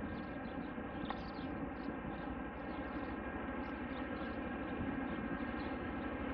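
Aircraft engines droning steadily, an even hum of many stacked tones that holds without a break.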